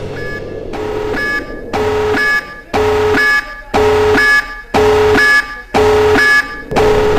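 Electronic alarm beeping: a long buzzing beep about once a second, each lasting about two-thirds of a second at a fixed pitch.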